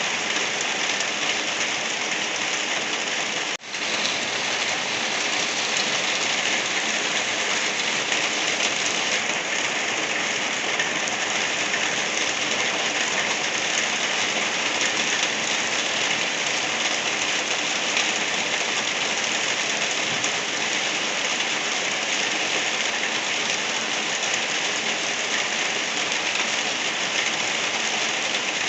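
Steady rain falling, a dense even hiss of drops, with one brief dip in level about three and a half seconds in.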